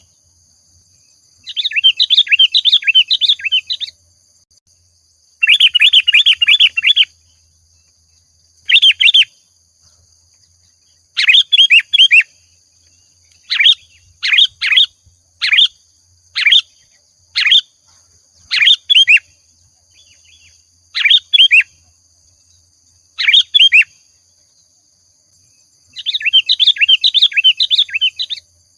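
Sooty-headed bulbul (kutilang) singing loud bursts of rapid, chirpy notes, each phrase lasting a couple of seconds. Through the middle stretch these give way to short single calls about once a second, and a long chattering phrase returns near the end.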